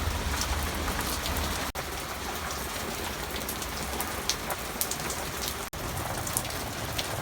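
Rain falling steadily, a continuous hiss with many scattered drop ticks.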